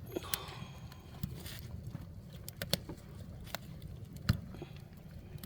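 Oak and pine wood fire burning under a cast-iron cauldron, crackling with irregular sharp pops over a steady low rumble; the loudest pop comes about four seconds in.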